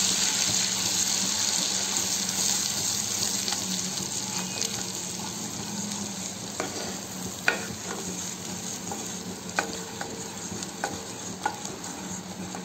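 Onion paste and green chillies sizzling in hot butter in a kadhai as a wooden spatula stirs them, with a few sharp taps of the spatula on the pan in the second half. The sizzle slowly fades as the paste fries.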